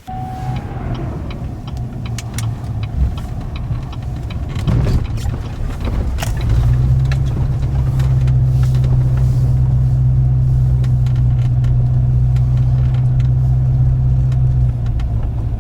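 Motor vehicle engine running, with scattered clicks and knocks over the first few seconds, then settling into a loud, steady low hum from about six seconds in.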